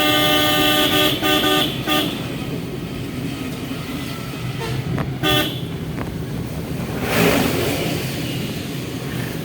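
Vehicle horn honking: one long blast and then a few quick short toots, with another short toot about five seconds in. Steady engine and road noise from a moving van runs underneath, with a brief rush of noise from passing traffic about seven seconds in.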